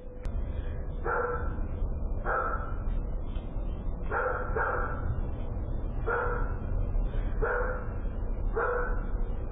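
A dog barking repeatedly, about one bark every second or so, with two barks close together around four seconds in. A steady low rumble runs underneath.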